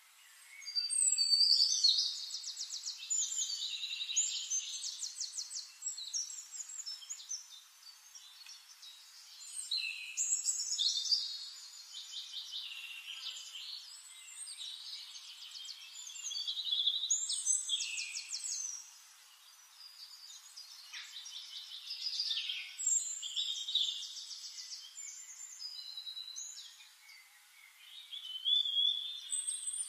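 A songbird singing: phrases of high, fast trills and whistles, repeated about every six seconds.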